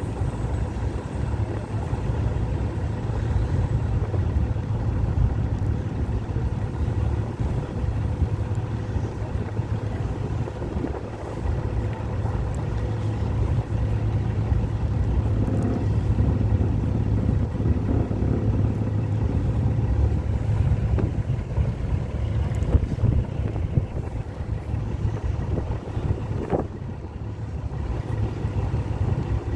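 Steady low engine rumble, with wind buffeting the microphone.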